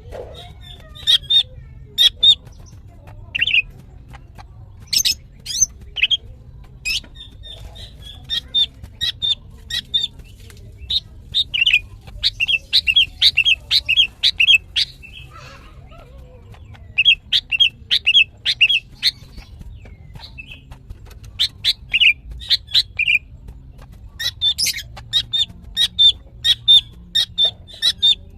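Female green leafbird (cucak ijo) calling in rapid runs of short, sharp, high notes, broken by short pauses. This is the excited, long-running female call that bird keepers play to set males singing.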